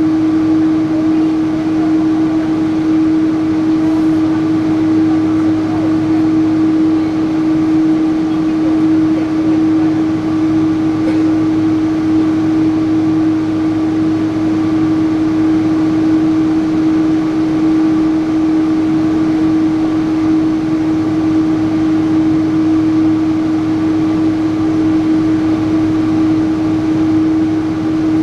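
Steady cabin noise inside a Boeing 777-300 airliner on the ground before takeoff: an even hum with a strong, unchanging drone from the engines and air-conditioning system.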